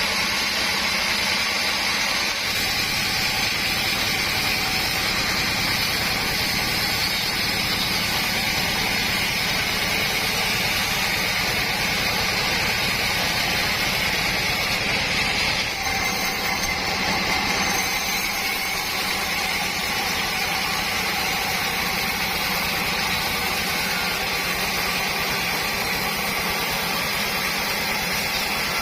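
Sawmill saw and its engine running steadily through mahogany sawing, a continuous machine drone with a short dip in level about halfway through.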